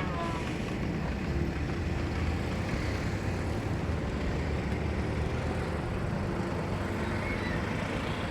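Excavator's diesel engine running steadily at a constant pace.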